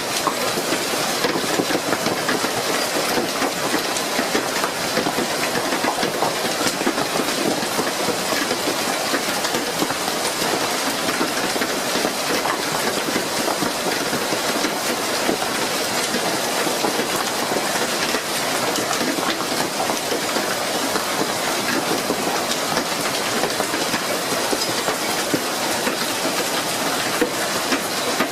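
Heavy storm downpour drumming down steadily: a loud, even hiss of rain with a dense patter of small hits on surfaces.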